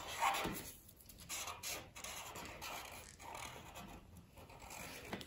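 Marker tip scratching on paper in short, irregular strokes as a name is written out.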